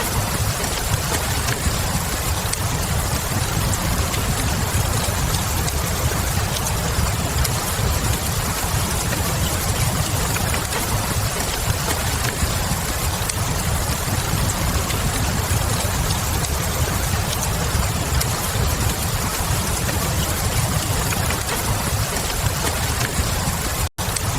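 Steady rain with a low rumble and light crackling of a wood fire in a fireplace, continuous and even. Near the end the sound cuts out for a split second, then resumes.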